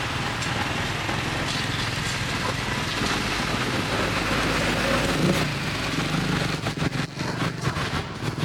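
Street traffic: motorbike engines running under a steady hiss of road noise, with a few brief dips near the end.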